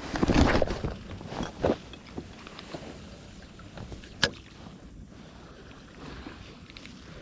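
Seawater sloshing against shore rocks with wind on the microphone: a loud surge in the first second, then a steady wash with a few sharp clicks, the clearest about four seconds in.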